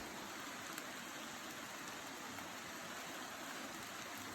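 Light rain falling in a forest: a steady, even hiss.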